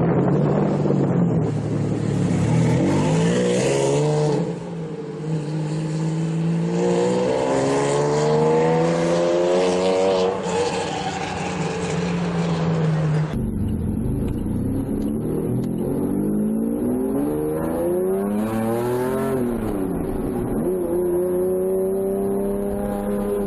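Lamborghini Diablo V12 engine accelerating hard, its note climbing and dropping again and again as it revs up through the gears. The engine note sweeps up and then down near the end, like a car driving past.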